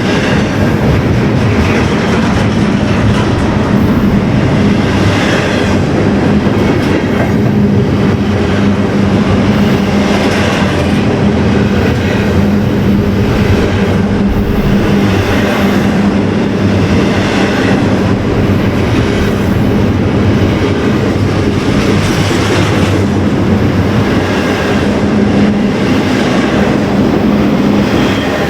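A train rolling past, its wheels clicking over rail joints at a regular pace under a steady low drone.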